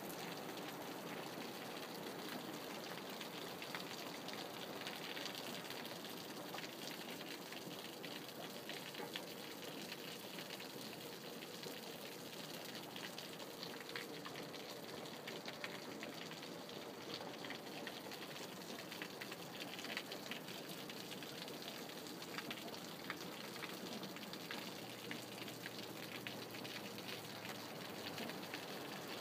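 Steady rain falling, a dense even hiss with many small ticks of individual drops striking surfaces.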